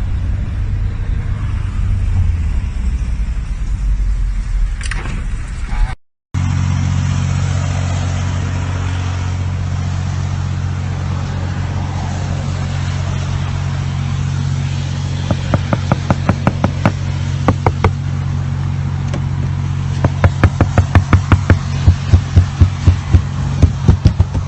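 Car driving noise heard from a dashcam: a low road rumble, then after a cut a steady low engine drone. Over the drone come two runs of rapid loud knocks, about five or six a second, the second run louder and near the end.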